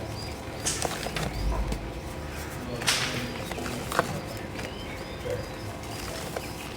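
Soft pink chalk chunks crunching and crumbling into powder in a few separate crunches, the loudest about three seconds in.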